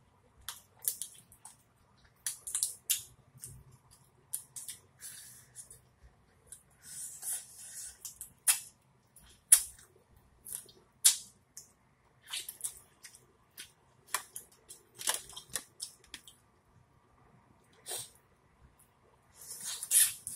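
Close-miked wet mouth sounds of a person eating boiled lobster tail meat: irregular smacks of chewing, lips and finger-licking. Near the end comes a louder, denser run as she bites into corn on the cob.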